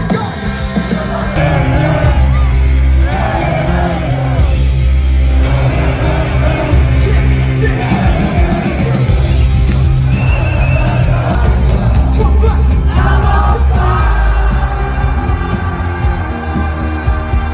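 Loud live rock band playing with a singer and heavy bass, the crowd yelling and shouting along.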